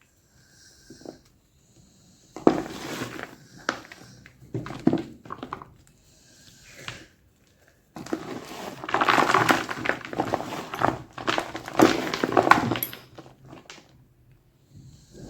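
Gym chalk being crunched: a few short crackling bursts, then a longer run of dense crunching from about eight seconds in until near the end.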